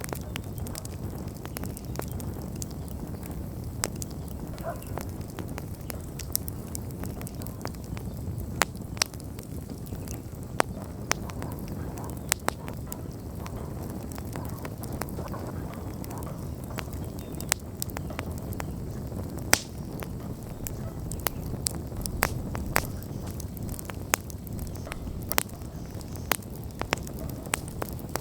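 Wood campfire burning, with a steady low rush of flame and frequent irregular sharp crackles and pops from the burning wood, one pop louder than the rest about two-thirds of the way through.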